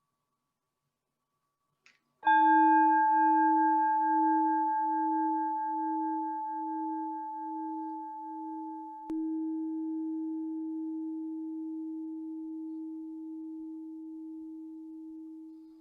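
A meditation chime struck once, about two seconds in, then left to ring out. It rings with several clear tones, the lowest wavering in a slow pulse at first, and fades slowly. A small click sounds about nine seconds in.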